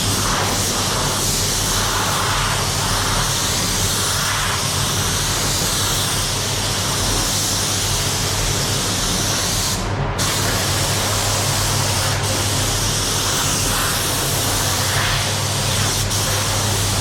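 Paint spray gun hissing steadily as it sprays paint onto a car bumper, over a steady low hum. The hiss breaks off briefly about ten seconds in.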